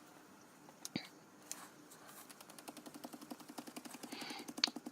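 A paint sponge dabbing onto a card in quick, even taps, about seven a second. The taps start faintly about halfway through and grow louder toward the end, after a single knock about a second in.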